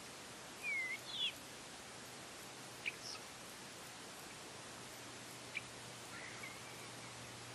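Faint outdoor ambience: a steady hiss with a few short, high bird chirps scattered through it, several close together about a second in.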